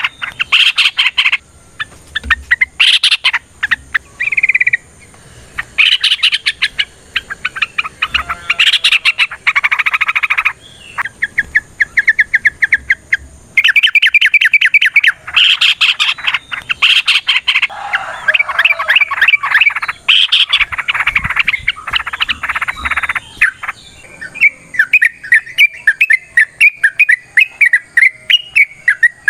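Yellow-vented bulbul (trucuk) singing long, fast chattering runs of rapid repeated notes, broken by short pauses; near the end the phrases change to quicker rising-and-falling notes.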